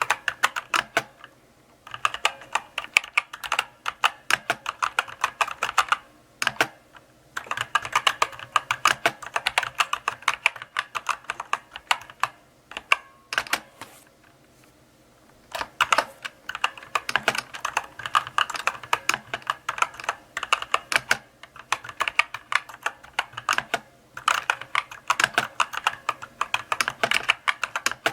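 Typing on a mechanical keyboard: runs of quick key clicks broken by short pauses of a second or two.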